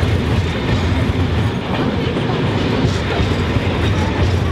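Railway passenger coaches rolling past close by, a loud, steady rumble of steel wheels on the rails.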